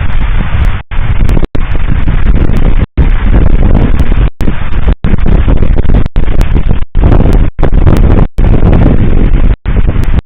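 Fireworks salute booming, so loud that the microphone overloads into a constant distorted rumble, broken by brief dropouts about once a second.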